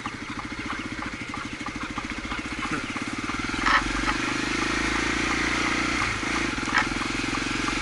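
Honda XR250's single-cylinder four-stroke engine running at low revs with a rapid, even putter that gets a little louder about three seconds in. A couple of short sharp clicks come through over it.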